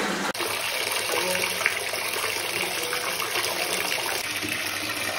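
Shower water spraying and splashing onto a tub floor and running down the drain: a steady rushing that starts abruptly a moment in.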